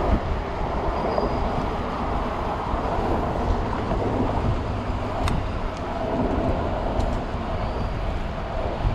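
Wind rushing over the camera microphone with road and tyre noise while riding an electric bike through city traffic. A couple of sharp clicks come about five and seven seconds in.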